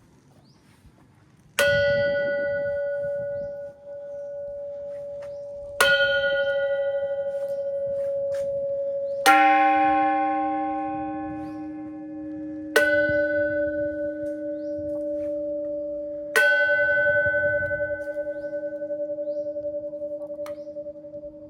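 Metal temple bells struck five times, about every three and a half seconds, each strike ringing on long and overlapping the next. The third strike brings in a deeper second tone that keeps ringing beneath the rest.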